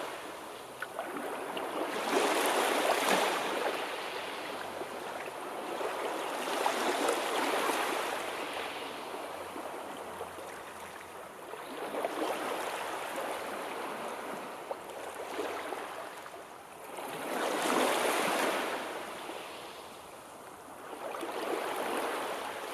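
Sea surf: waves breaking and washing in, the rush swelling and fading about every five seconds.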